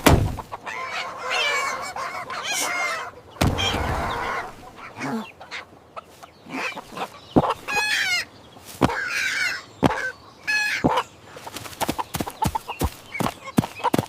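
Chickens clucking and calling, with many short sharp taps in the second half.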